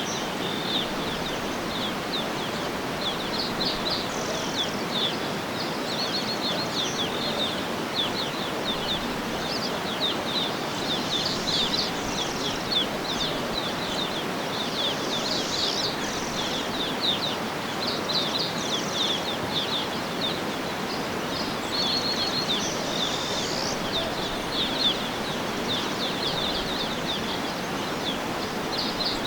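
Outdoor nature ambience: many birds chirping and trilling over a steady rushing background noise.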